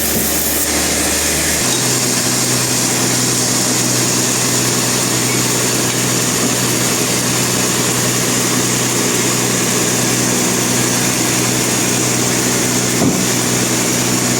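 Sawmill machinery running steadily: an engine-like hum over a constant hiss, the low hum stepping up in pitch about one and a half seconds in.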